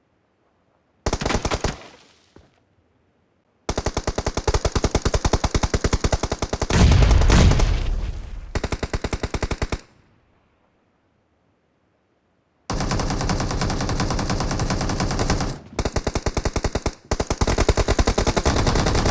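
Video game automatic gunfire in long rapid bursts of many shots a second. A short burst comes about a second in, a long burst around the middle with a deeper boom in it, then a brief lull, and nearly unbroken fire through the last third.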